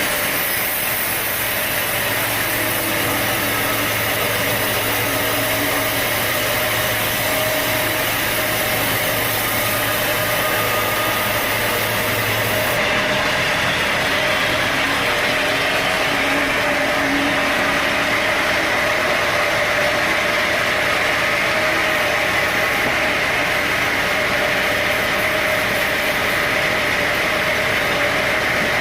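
Sawmill machinery running steadily, a loud, even mechanical din with a steady mid-pitched tone. About halfway through, a low hum and a high hiss stop while the rest runs on.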